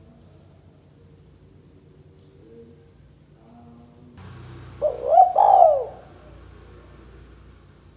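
Spotted dove (tekukur) cooing. Faint, distant coos come first, then about five seconds in one loud, close coo phrase of three notes.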